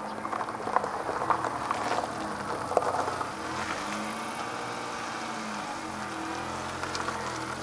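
Rain falling, with close drops ticking sharply in the first three seconds, and a car passing on the wet road around the middle, its tyre hiss rising and falling.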